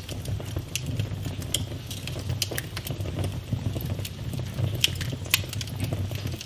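Wood fire burning in a fireplace: a steady low rumble of flame with scattered crackles and pops, two sharper pops in the second half.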